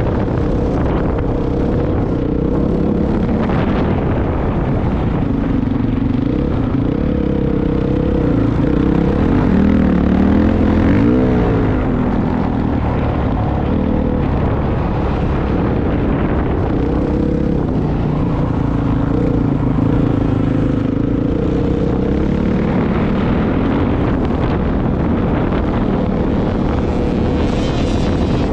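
Motorcycle engine running as the bike is ridden, its revs rising and falling throughout, with a quick climb in pitch about eleven seconds in.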